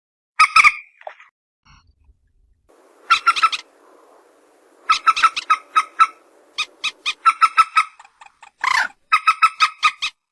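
Common moorhen (mandar batu) calling: several bursts of rapid, sharp clucking notes repeated in quick series, with a faint low background noise under the calls in the middle.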